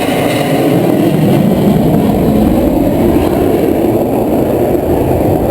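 Jet aircraft flying past low, a loud steady engine rush.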